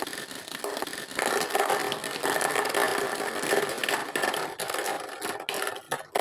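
A small motor whirring, with rattling and scraping. It grows louder about a second in and cuts off suddenly at the end.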